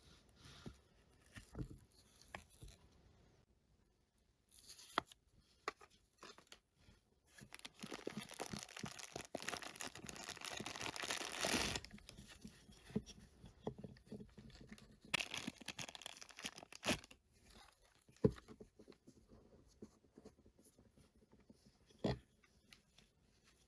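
Small plastic packaging torn open and crinkled, with a dense spell of tearing and rustling in the middle, and scattered light clicks and taps of small plastic toy parts being handled.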